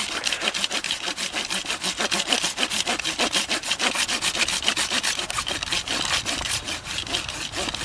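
Hand saw cutting through wood with rapid, even back-and-forth strokes, kept up steadily throughout.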